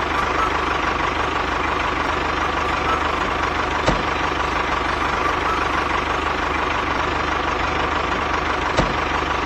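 An engine running steadily, like an idling tractor, with a sharp click about four seconds in and another near the end.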